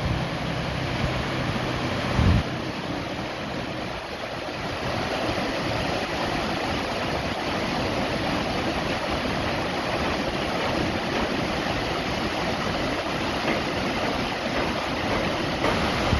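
Waterfall rushing steadily, an even roar of falling water, with a brief low thump about two seconds in.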